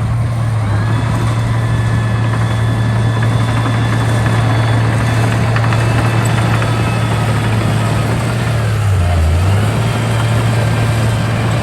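Heavy diesel engine of construction machinery running steadily at a low, even pitch, with mechanical clatter above it. The pitch dips briefly about nine seconds in, as if the engine is loaded, then recovers.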